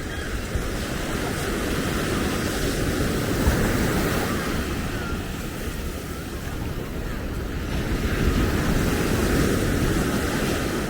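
Ocean surf washing on a sandy beach, the noise swelling and easing as waves break, with wind buffeting the microphone.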